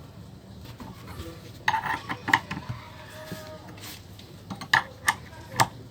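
Hard metal parts clinking and clattering against each other. There is one cluster of sharp knocks about two seconds in and another near the end.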